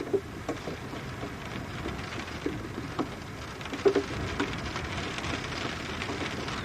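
Steady rain falling, with scattered heavier drops tapping on a hard surface; a few taps cluster together about four seconds in.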